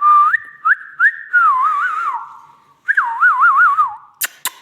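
Parrot whistling in two phrases: a few quick rising notes that settle into a wavering pitch, then after a short pause a warbling whistle that goes up and down. A few sharp clicks follow near the end.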